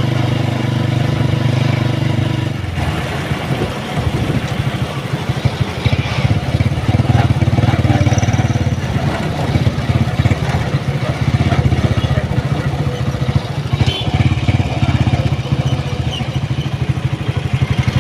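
A vehicle's engine running steadily, then about three seconds in changing to a faster, rougher throb with rattling as the vehicle moves off.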